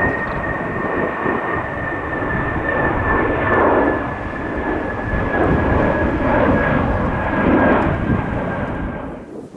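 Airliner passing with its engines running loud: a steady high whine that slowly falls in pitch over a rough, surging rumble. The sound cuts off suddenly near the end.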